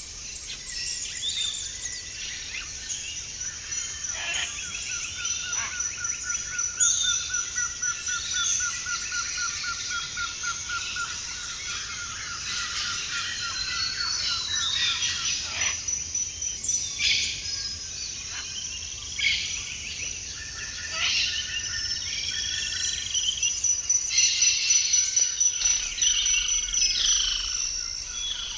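Many birds calling and singing together in tropical forest, with overlapping whistles and chirps over a steady high-pitched buzz. A fast, even trill runs through it from about four seconds in to about twelve seconds.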